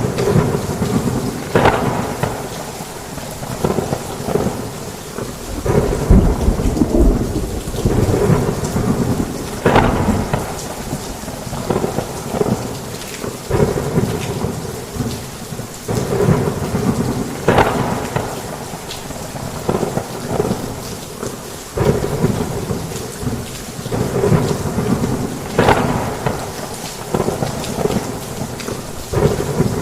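Heavy rain pouring steadily on a roof, with thunder rumbling in low swells and a sharp crack every several seconds.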